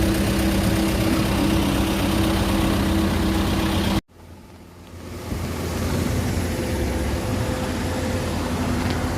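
Excavator engine running steadily with a low hum. About four seconds in, the sound cuts off abruptly. It then fades back up to a steady engine sound with a fainter, higher hum.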